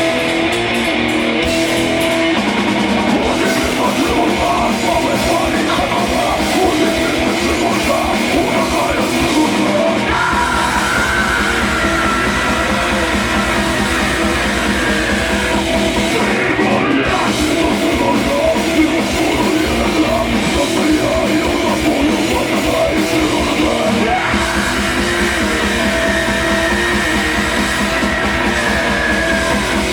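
Rock band playing live at full volume: electric guitars and a drum kit, with fast, dense drumming.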